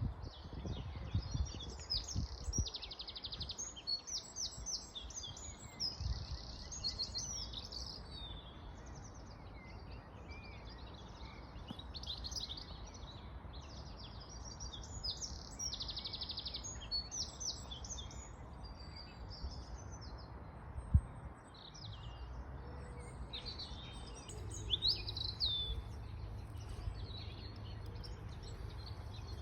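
Several songbirds singing, with a steady stream of chirps and trills over a low background rumble. A single sharp knock comes about two-thirds of the way through.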